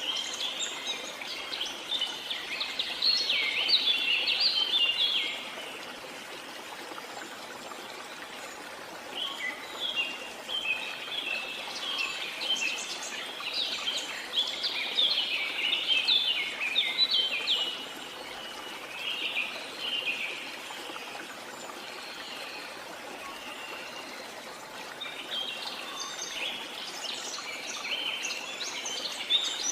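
Birds chirping and trilling in quick bursts, with lulls between them, over a steady rush of falling water.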